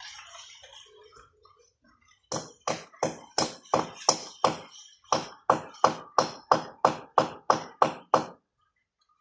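A hammer striking in a steady rhythm, about three blows a second, around seventeen blows in all with a short pause partway through. Faint bird chirps come before it.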